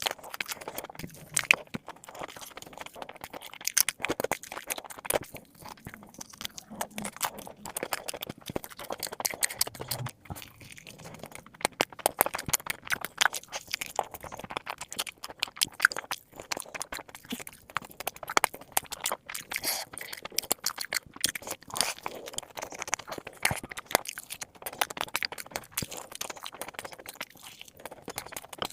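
Close-miked crunching and chewing of crispy fried chicken drumsticks: dense, irregular crackles and bites as the crunchy coating breaks.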